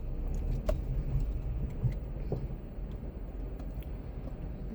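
A car engine idling, a steady low rumble heard from inside the cabin, with a couple of faint clicks.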